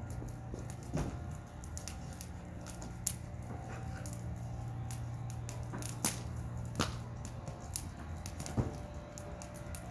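Wood fire crackling: a steady low rumble with scattered sharp pops and snaps, a few of them louder, about a second in, at three, six and seven seconds, and near the end.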